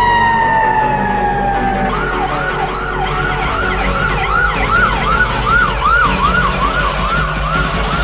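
Fire engine siren: a wail tone sliding slowly down in pitch for about two seconds, then switching to a fast yelp of rapid rising-and-falling sweeps, nearly three a second, over the truck's engine running.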